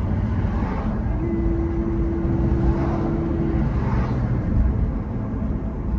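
Road traffic: a steady low rumble of vehicles, with several cars swishing past.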